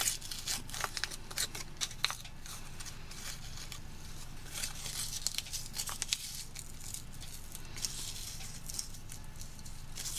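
Crinkling and rustling of a ration seasoning packet being handled, coming in bursts with many small clicks.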